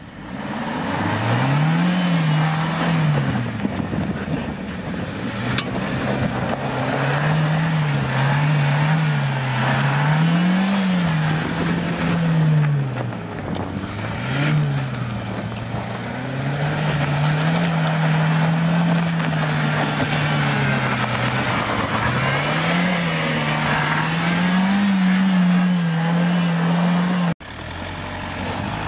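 Dacia Duster 1.33 TCe four-cylinder turbo petrol engine revving up and down again and again as the car spins circles in snow with stability and traction control switched off. The sound breaks off abruptly near the end.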